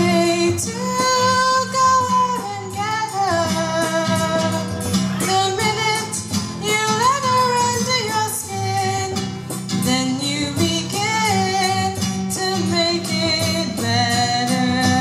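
A female voice singing a slow melody with long held notes that slide between pitches, accompanied by a strummed acoustic guitar.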